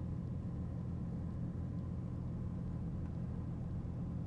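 Cessna 421B's twin geared, turbocharged Continental piston engines running at low power after landing, a steady low drone heard from inside the cabin.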